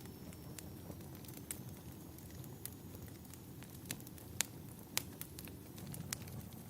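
Wood fire crackling in a fireplace: irregular sharp pops and snaps, the two loudest about four and a half and five seconds in, over a steady low rumble.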